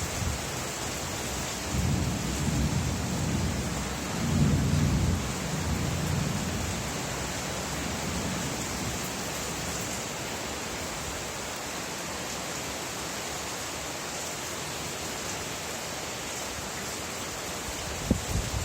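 Steady rain falling, with a low rumble of thunder that rolls in about two seconds in, peaks around the middle, and dies away a few seconds later. A few short low thumps near the end.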